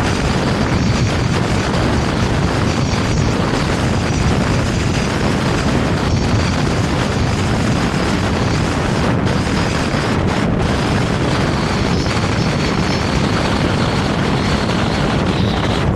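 Vario LF2R.E tram running along the track: a steady rolling and running noise with a constant level.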